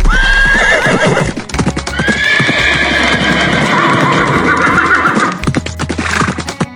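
A horse whinnying, a short neigh at the start and a longer wavering one about two seconds in, over rapid hoofbeats, with background music.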